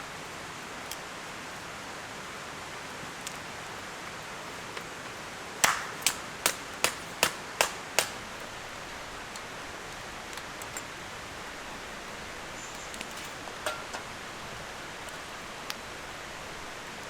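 A steady hiss, with a quick run of seven sharp knocks about two or three a second, about a third of the way in. A few scattered faint ticks follow.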